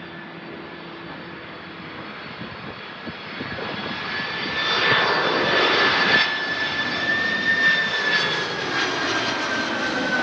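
Jet airliner passing low overhead: the rumble of its engines grows louder to a peak about halfway through, over a high whine that drops slightly in pitch as the plane goes by.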